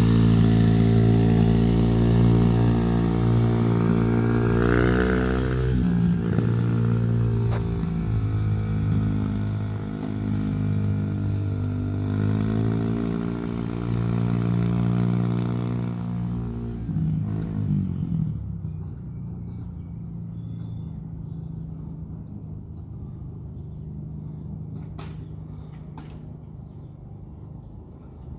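Dirt bike engine running close by, its pitch shifting and rising as it revs, then pulling away and fading into the distance about two-thirds of the way through.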